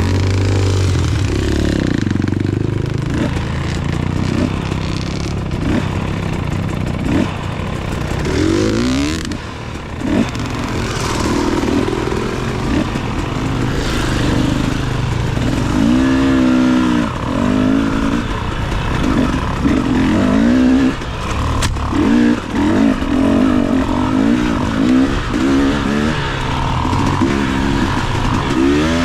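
Enduro dirt bike engine being ridden, its revs rising and falling over and over with throttle changes.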